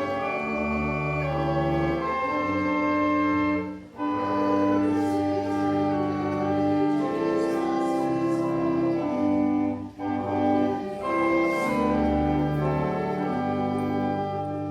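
Church organ playing a hymn in sustained chords, with short breaks between phrases about four seconds and ten seconds in.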